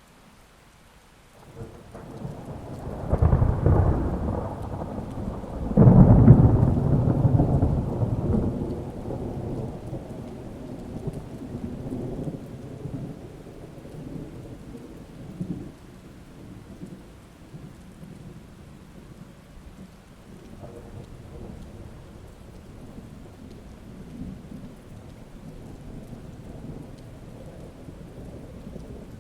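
Thunderstorm with steady rain. Thunder begins rolling about two seconds in, and a louder clap about six seconds in rumbles away over the following several seconds.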